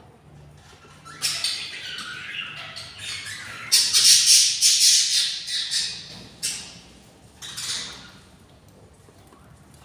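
Budgerigar chicks giving harsh, raspy begging squawks, one long rising bout and then two short bursts, the sound of hungry nestlings calling for food.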